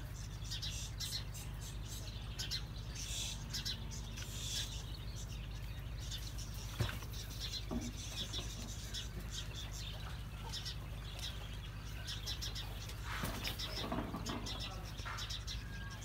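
Small birds chirping over a steady low hum, with one sharp knock about seven seconds in.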